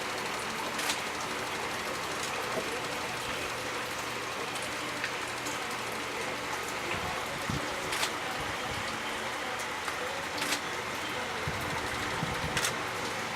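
Steady outdoor hiss with a few sharp clicks scattered through it.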